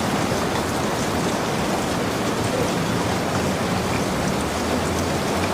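Steady rain falling, with a dense, even patter of drops.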